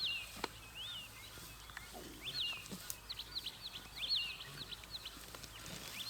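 A bird calling in short, arched whistled notes that rise and fall in pitch, spaced out at first, then a quick run of about eight notes in the middle. A few faint snaps or clicks come in between.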